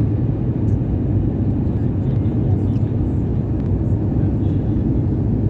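Steady low rumble of an airliner's engines and rushing air as it comes in to land, even and unchanging throughout.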